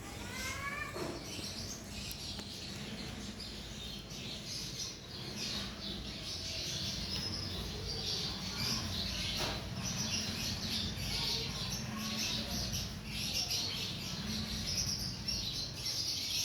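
A small bird chirping and twittering in quick, high-pitched bursts, with a few short rising whistles about half a second in, over a steady low hum.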